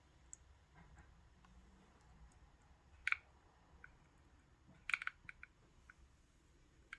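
Sharp clicks of a vintage Kenmore sewing machine's knobs and metal parts being worked by hand: one click about three seconds in, then a quick cluster of four or five clicks about five seconds in, with faint ticks between.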